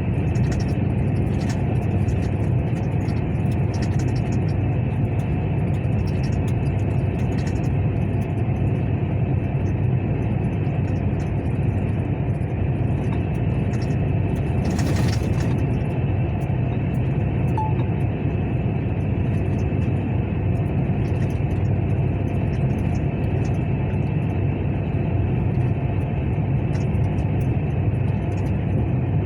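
Truck engine running with a steady low rumble that does not rise or fall, with a short hiss about halfway through.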